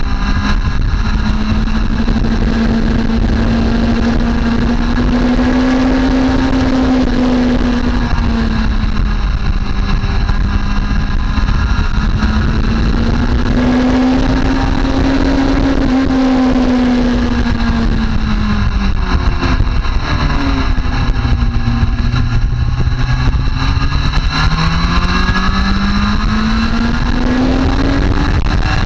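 Motorcycle engine at speed on a race track, its pitch rising and falling slowly in long swells. It drops sharply about twenty seconds in as the bike slows, then climbs steadily under acceleration, over a heavy rush of wind noise.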